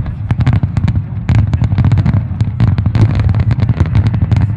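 Aerial fireworks shells bursting in quick succession: many sharp bangs and crackles a second over a continuous low rumble.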